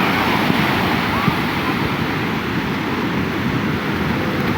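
Sea surf breaking and washing up the beach: a loud, steady rush of waves.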